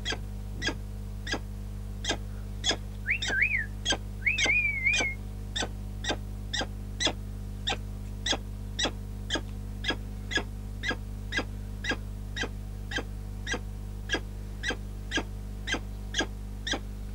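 A falcon calling over and over: short, sharp calls just under two a second, with a couple of longer wavering calls about three to five seconds in. A steady low hum runs underneath.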